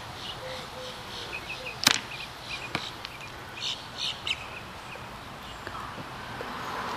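Small birds chirping in short, high calls scattered throughout, with a sharp click about two seconds in and a fainter one shortly after.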